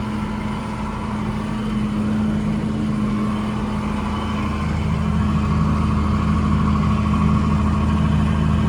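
Tractor engine running steadily while pushing snow with its plow, growing a little louder over the last few seconds.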